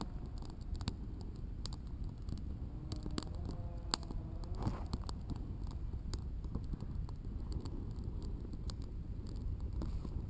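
Campfire of sticks burning, crackling with irregular sharp pops and snaps over a low steady rumble.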